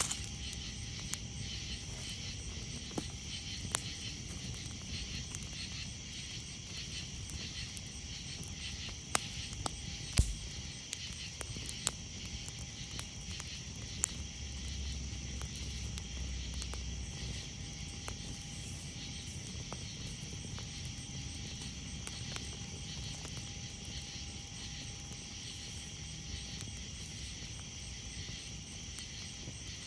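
A campfire crackling, with scattered sharp pops and snaps, the loudest about ten seconds in, over a steady high chirring chorus of night insects.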